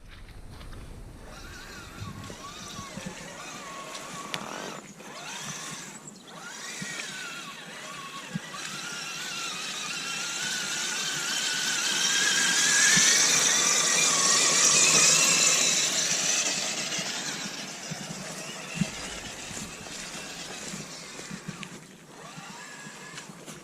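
Element Enduro Sendero SE RC crawler's electric motor and gear drivetrain whining, the pitch wavering up and down with the throttle. It grows louder towards the middle and then eases off, with a few small clicks and knocks from the crawler.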